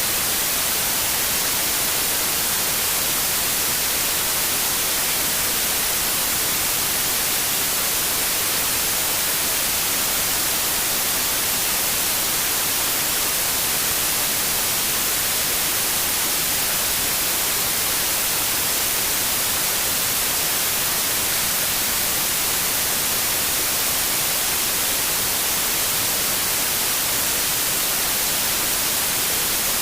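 Steady, unchanging white noise: an even hiss, bright in the upper frequencies, with no breaks.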